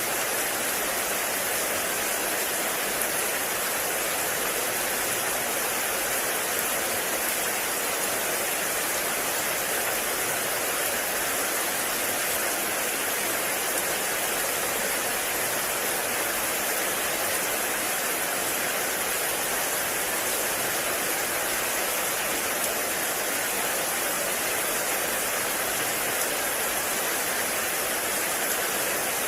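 Heavy rain falling steadily in a forest, an even, unbroken hiss of rain on leaves.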